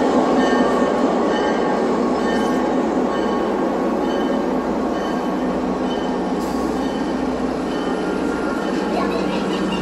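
Railroad passenger cars rolling past at low speed as the train comes in. The wheels make a steady rumble on the rails that eases slightly as the train slows, with faint, brief high squeals now and then.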